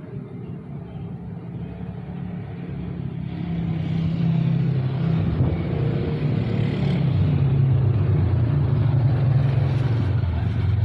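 Motor vehicle engine running with a steady low hum, growing louder about three to four seconds in and staying loud.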